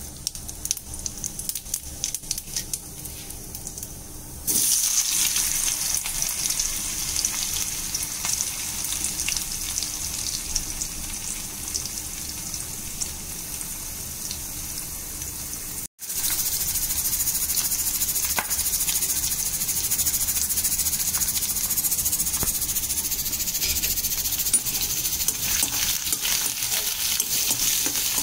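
Cumin seeds crackling faintly in hot oil in a kadai. About four and a half seconds in, diced potatoes go into the oil with a sudden loud sizzle that carries on as a steady frying hiss. The sound drops out for a moment a little past halfway, then the sizzling resumes.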